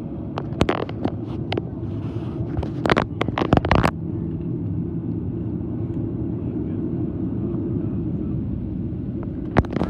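Jet airliner cabin noise: a steady low rumble, broken by clusters of sharp clicks and rattles in the first few seconds and again near the end.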